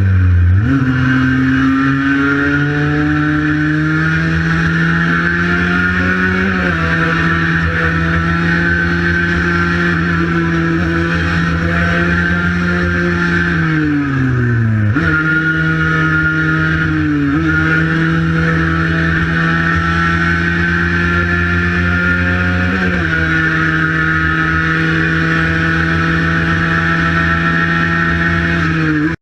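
Cagiva Mito 125 two-stroke single-cylinder engine running hard under way, its pitch mostly held high and steady. The pitch steps down sharply a few times and sinks slowly before jumping back up about halfway through.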